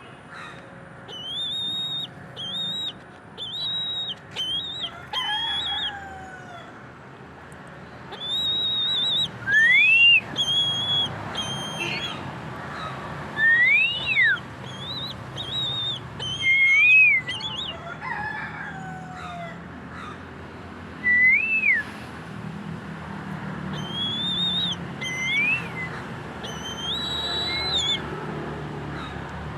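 A bird's high, piping calls in short runs of quick notes, mixed with single rising-and-falling whistles repeated every few seconds.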